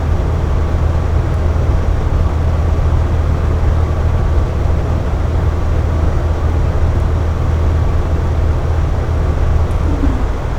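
Air conditioner running steadily: a constant low hum with a broad rushing noise of air over it.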